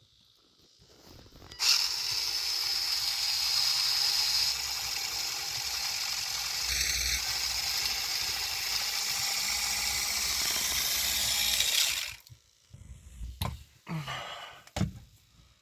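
The converted RC truck's electric drive motor and gearbox running at a steady speed for about ten seconds, wheels spinning freely, then shutting off; a few light handling clicks and knocks follow.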